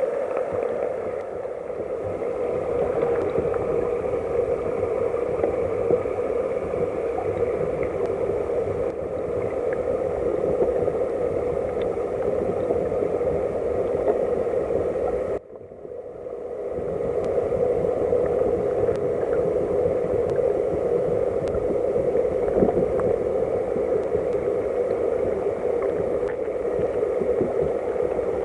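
Headwater mountain stream flowing, a steady rush and gurgle of water. About halfway through the sound drops suddenly and builds back up over a second or two.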